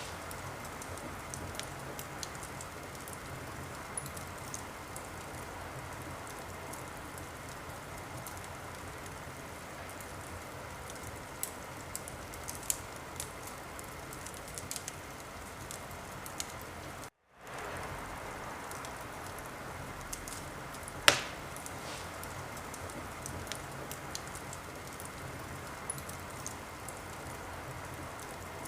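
Wood fire in a fireplace crackling: a steady hiss with scattered sharp snaps and one louder pop about three-quarters of the way through. The sound cuts out completely for a split second about 17 seconds in.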